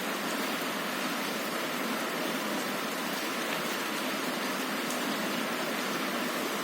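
Heavy rain falling on a window, a steady dense hiss with a few faint sharper drop ticks.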